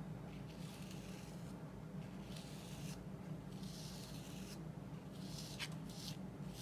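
Paintbrush strokes with oil paint on multimedia paper: several short, soft rubbing strokes over a steady low hum.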